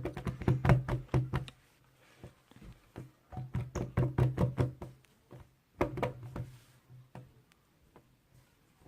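Rapid knocking in three bursts, each about a second long, with short gaps between them.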